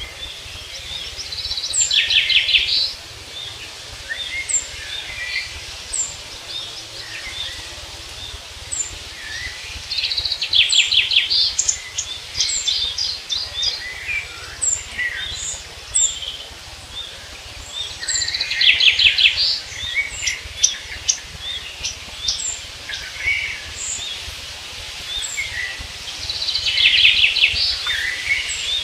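Songbirds singing: one bird repeats a loud, fast trilled song phrase about every eight seconds, four times, with short high thin calls and chirps from other birds in between. A steady low rumble runs underneath.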